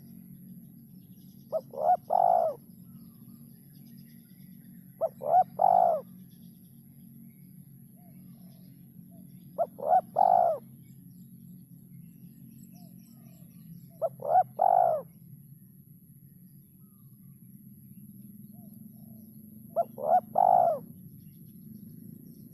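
Derkuku (spotted dove) cooing: five calls a few seconds apart, each two short notes followed by a longer coo, over a steady low hum.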